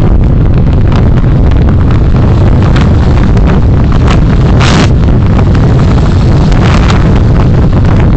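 Steady low rumble of a car driving, with road noise and wind buffeting on the dashcam microphone. There is a short hiss about halfway through.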